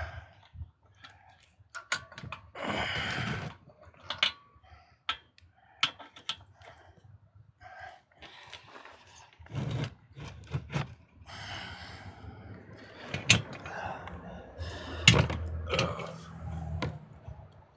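Irregular clicks, knocks and clanks of hand tools working on a small engine as a stuck part is worked loose.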